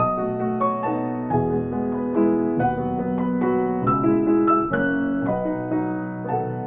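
Piano playing, with notes and chords struck a few times a second and left to ring.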